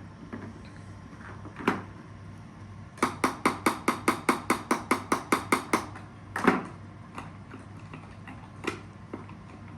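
Hammer blows: a single knock, then a rapid run of about fifteen even taps, about five a second, then two more single blows, the first of them the loudest.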